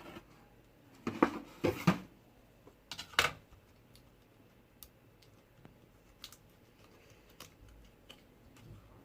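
Clicks and light clatter of small hard objects being handled, loudest in two short clusters about one to two seconds in and about three seconds in, then a few faint scattered ticks.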